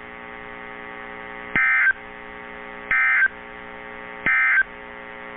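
Emergency Alert System end-of-message data bursts from a NOAA Weather Radio broadcast: three short, identical warbling digital tone bursts about a second and a half apart, over a steady receiver hum. They mark the end of the high wind warning message.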